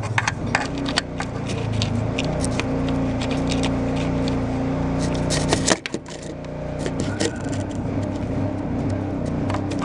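A steady low motor hum, with scattered knocks and scrapes from close handling.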